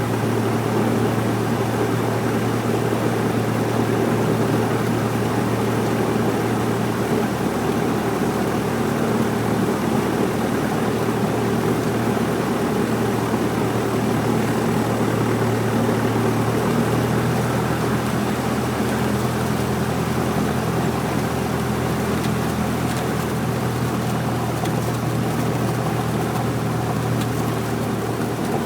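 Cessna 172's piston engine and propeller droning steadily, heard inside the cockpit with airflow noise; the engine note drops slightly about two-thirds of the way through.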